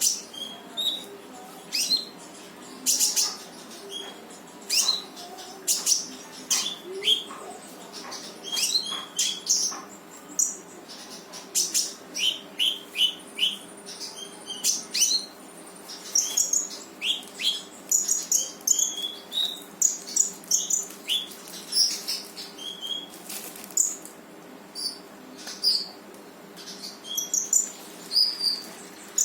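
Konin songbird singing continuously in quick, sharp, high chirps and short slurred notes, in rapid 'shot' bursts with hardly a pause, over a faint steady hum.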